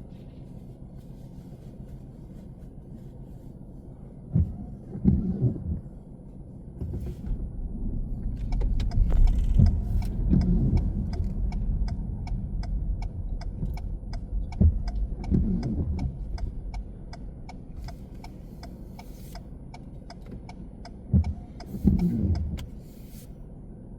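Car driving in city traffic: a steady low road rumble with several louder swells, and a fast, even ticking that starts about a third of the way in and runs almost to the end.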